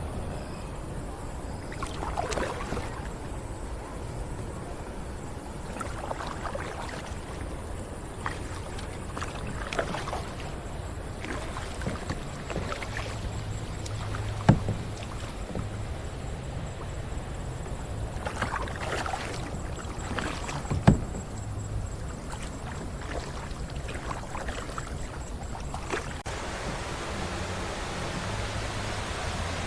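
Kayak paddle strokes swishing and splashing in the water every few seconds, with two sharp knocks a few seconds apart near the middle.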